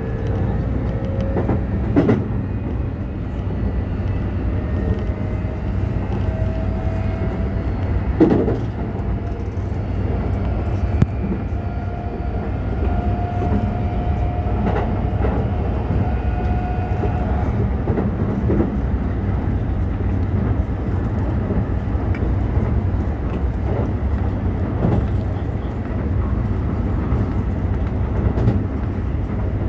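Toei 5500 series electric commuter train running between stations: a steady low rumble of wheels on rail with a few sharp rail-joint knocks. Over the first half a motor whine rises slowly in pitch, then stops about halfway through.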